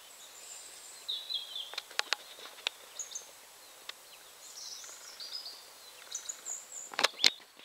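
Small birds chirping and twittering in short high calls over faint outdoor hiss. A few sharp clicks come about two seconds in, and two louder clicks near the end.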